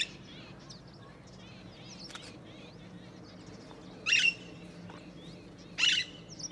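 Parrot giving three short, harsh screeching calls: one right at the start, one about four seconds in and one about six seconds in. Fainter chirps of small birds twitter in between.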